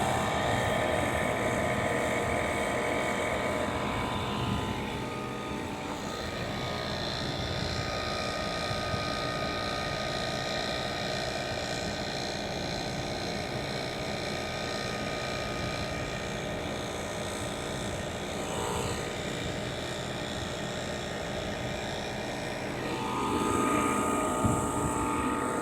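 Comfort Star central air conditioner's outdoor unit running: the condenser fan blowing with a steady mechanical hum, a little louder near the end.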